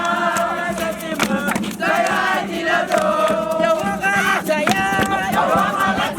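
A group of campers chanting and singing loudly together, many voices at once in a rhythmic campfire song, with shouts mixed in.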